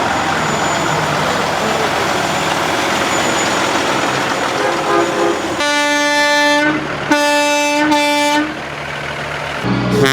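Semi truck air horn blowing, a long steady blast about five and a half seconds in and a second, longer blast a moment later, with another starting near the end. Before the horns there is a steady rumble of truck engine noise.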